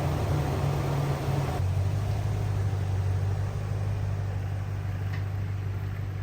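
Lexus GX470's 4.7-litre V8 running through a Magnaflow overland exhaust, a steady, low, subdued drone. About a second and a half in the revs fall and the note drops to a deeper, steady hum.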